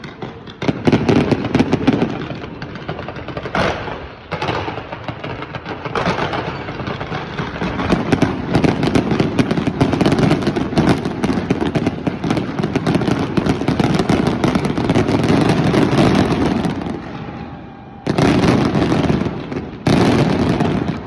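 Fireworks display: dense, rapid bangs and crackling from many shells and fountains going off together. It eases off briefly near the end, then two fresh loud barrages start about a second apart.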